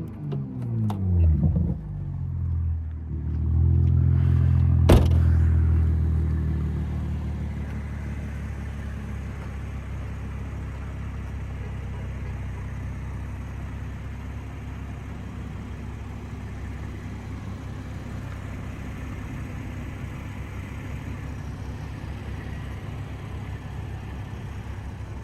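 Modified Toyota GR Supra (MK5) engine and exhaust dropping off revs with a few crackles, then holding a loud steady drone with one sharp exhaust pop about five seconds in. After that it settles to a steady low-rev rumble.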